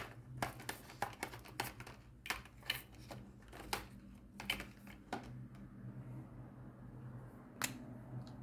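Irregular small plastic clicks and taps from handling diamond painting drill bags and storage jars, quick and frequent for about five seconds, then sparse with one sharper click near the end.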